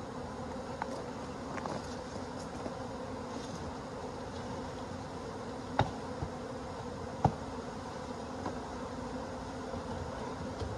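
A large swarm of honey bees buzzing, a steady dense hum. Two sharp clicks sound about six and seven seconds in.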